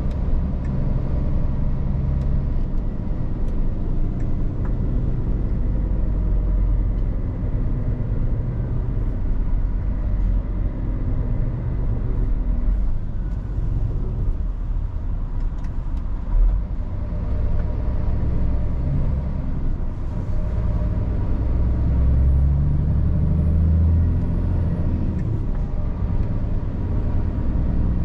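Scania R450 truck's six-cylinder diesel engine running on the move: a steady low drone that swells briefly louder about three quarters of the way through, with road noise.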